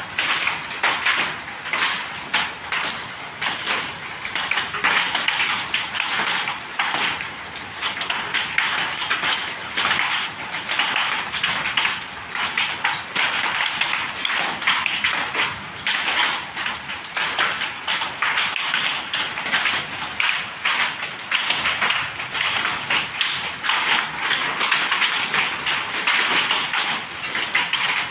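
Hail falling with heavy rain: hailstones strike hard surfaces in a dense, irregular stream of sharp taps over the steady hiss of the downpour.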